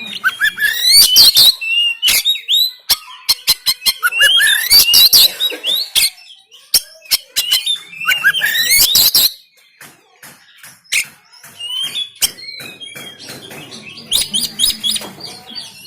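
Oriental magpie-robin (kacer) singing in loud bursts of rapid, sweeping whistled notes, three bursts about four seconds apart, with many sharp clicks among them. After about nine seconds the song drops to softer, scattered phrases.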